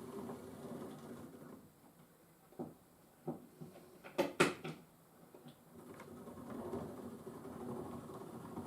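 Model railway locomotive running slowly along the track, its motor giving a low growl. The growl fades for a few seconds in the middle, where a handful of sharp clicks sound, then returns.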